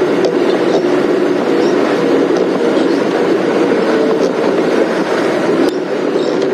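Open safari game-drive vehicle driving on a dirt track: a steady engine drone with light rattles and clinks from the vehicle.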